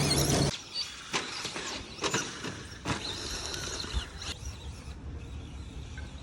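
Radio-controlled car sounds: a louder steady sound cuts off abruptly about half a second in, followed by scattered sharp knocks and brief high whines that rise and fall.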